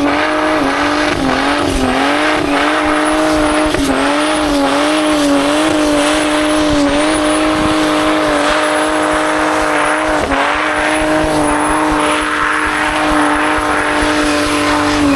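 Car engine held at high revs during a burnout, its pitch wavering slightly as the throttle is worked, over the steady hiss of spinning tyres.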